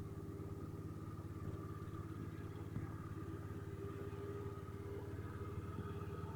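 Honda Dio AF62 scooter's four-stroke single-cylinder engine idling steadily, an even low pulsing note.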